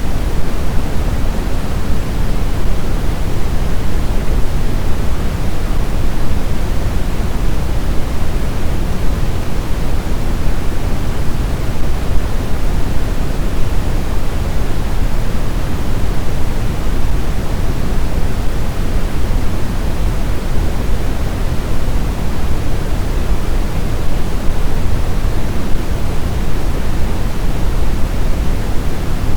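Steady, even rush of blizzard wind noise, deep and unchanging, with no gusts, howls or other events.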